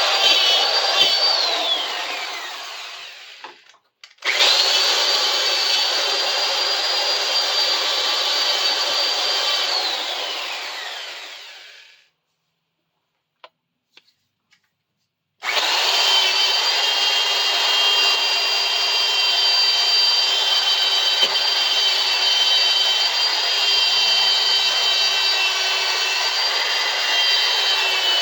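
Electric drill running at full speed against a rusty steel bar clamp, a steady high whine over a rasping scrub as it works at the metal. It is let off and winds down twice, about two seconds in and again around ten seconds in, with a few seconds of quiet after the second, then runs steadily again from about fifteen seconds in.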